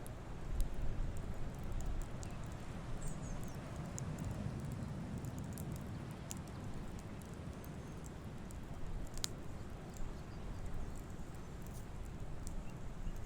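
Campfire crackling: scattered sharp pops and snaps of burning wood, with one louder snap about nine seconds in, over a steady low rumble.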